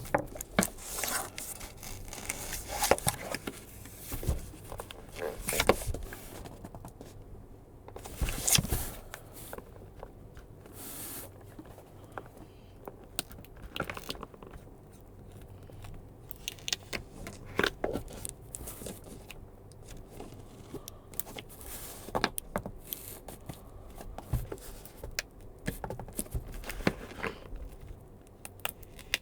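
Cardboard and paper packaging being handled and unpacked by hand: irregular rustling, scraping and light taps. It is busiest in the first few seconds and again about eight seconds in, then thins to scattered clicks and soft scrapes.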